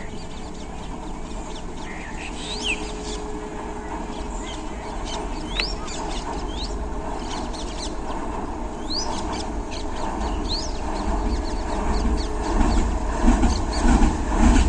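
Low diesel-engine rumble of a WDG6G locomotive growing steadily louder, pulsing more strongly near the end, with birds chirping in short rising calls over it.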